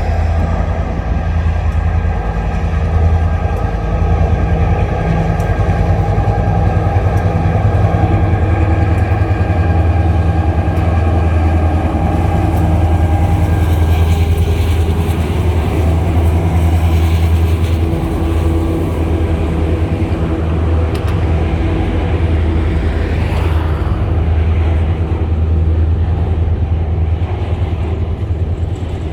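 Diesel-electric locomotives hauling a coal train, their engines running in a steady low drone with a few held tones above it. A rougher, noisier stretch comes about halfway through.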